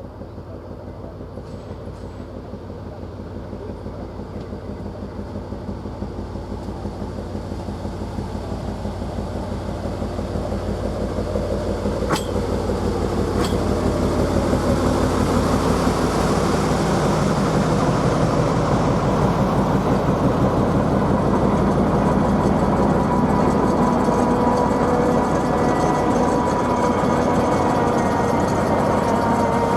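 Hungarian-built SN61 diesel railcar running, growing steadily louder over the first half and then holding steady, with a whine rising out of the engine sound in the second half. A couple of sharp clicks come near the middle.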